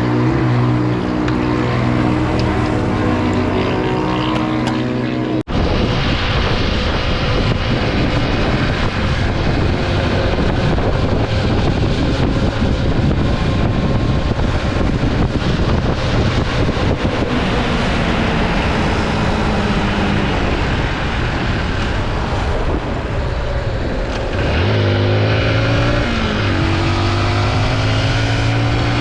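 Motorbike engine running while being ridden, with a steady rushing noise over it. The sound cuts off abruptly about five seconds in and starts again at once. Near the end the engine's pitch climbs several times in a row as it accelerates through the gears.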